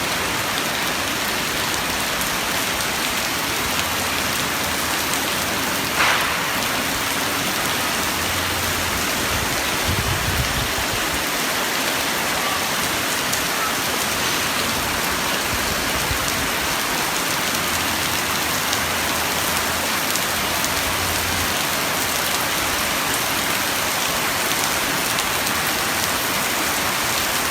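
Dense, steady pattering and splashing on a water surface, like heavy rain on the sea, with one sharp knock about six seconds in.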